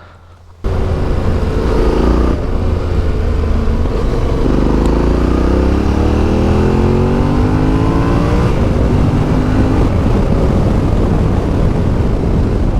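Yamaha Ténéré 700's CP2 parallel-twin engine pulling away under load. It starts suddenly about half a second in, then rises in pitch through the gears, with long climbs broken by shifts, before settling to a steadier note near the end.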